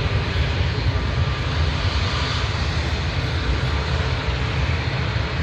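Jet airliner's engines running, a loud, steady rumble with hiss.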